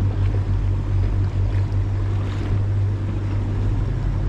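Boat engine running steadily with a constant low hum, over the rush of water and wind.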